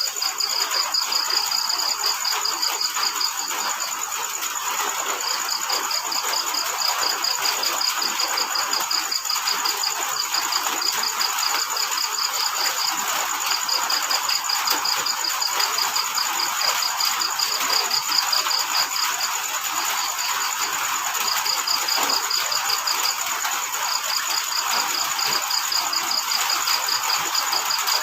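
Crickets chirping in long trains of rapid pulses that break off for a second or so and start again, over a steady high-pitched insect tone and the even hiss of falling rain.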